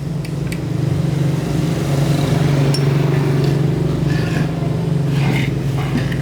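An engine running steadily with a low hum, getting louder about a second in, with a few light clicks over it.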